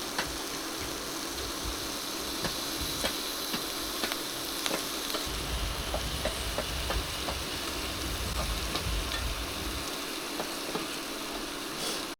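Food frying in a pan: a steady sizzle with scattered pops and crackles.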